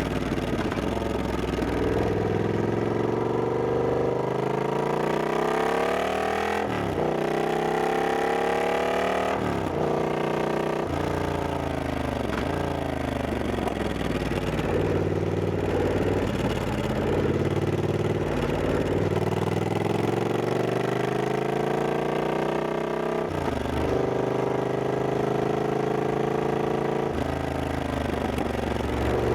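Triumph Scrambler 1200X's 1200 cc parallel-twin engine under way, the revs repeatedly climbing and dropping through gear changes, with sharp drops in pitch several times.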